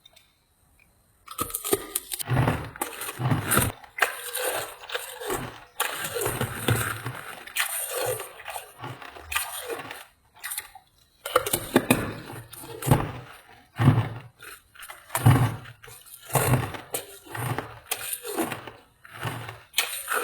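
Ice being bitten and chewed close to the microphone: a dense run of sharp crunches and cracks with dull low thumps, starting about a second in, pausing briefly around halfway, then carrying on.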